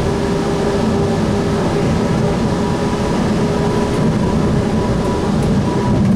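Inside a Sound Transit Link light rail car under way: steady rumble of the wheels on the rails with a constant motor whine held at one pitch.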